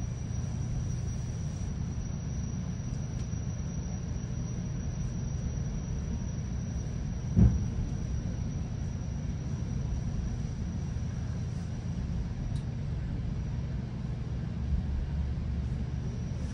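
Steady low rumble of a GO Transit commuter train coach running along the line, heard from on board, with one sharp low thump about seven seconds in.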